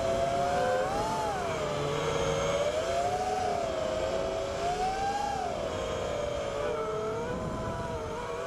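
FPV racing quadcopter's brushless motors (Cobra 2204 with 5-inch tri-blade props) whining in flight: several close tones that swell and dip in pitch together as the throttle changes.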